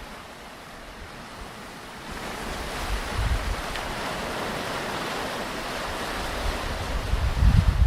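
Ocean surf at a beach: the wash of breaking waves swells about two seconds in and stays up. Wind buffets the microphone with low rumbles, the strongest near the end.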